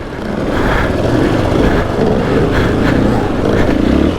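Single-cylinder four-stroke dirt bike engine (KTM EXC-F 500) running under throttle while being ridden over rough, rocky ground. The pitch wavers as the throttle changes.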